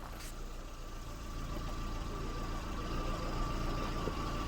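An engine running steadily, its low rumble growing louder about two seconds in, with a thin steady high tone.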